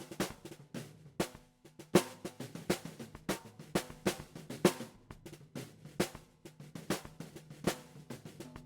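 Recorded acoustic drum kit playing a steady groove of kick, snare and cymbal hits, heard as a mixed studio drum track.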